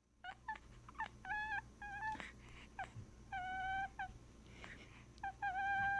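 A sleeping dog whimpering in its sleep: a string of short high squeaks, then longer, steady-pitched whines, the longest near the end.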